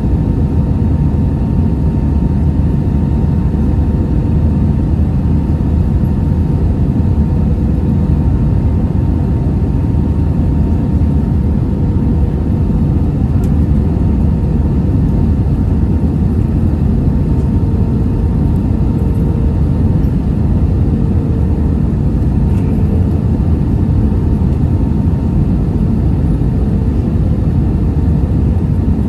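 Airliner noise during landing: a steady low rumble of engines and rushing air, with a faint steady hum over it.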